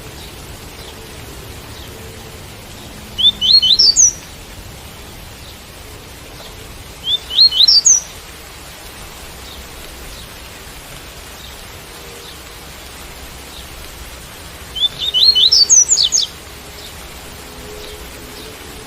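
Double-collared seedeater (coleiro) singing its tui-tui song: three short phrases of quick rising notes, about four seconds apart, the last one longest, over steady rain.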